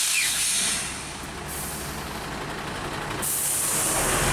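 Truck air brakes hissing as a truck in stopped traffic releases its brakes to move off. There is a sharp hiss lasting about a second and a half, then another from about three seconds in, over truck engine rumble.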